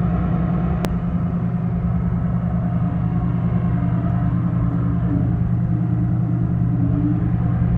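Heavy diesel engine of a log loader running steadily under load, a constant low hum, with one sharp click about a second in.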